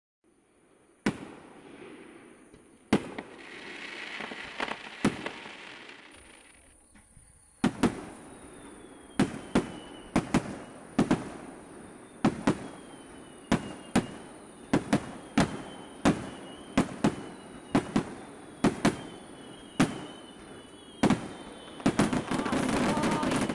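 Fireworks display: aerial shells bursting with sharp bangs, at first a few seconds apart, then in a steady run more than once a second, some with a faint falling whistle. Near the end a dense, crackling barrage.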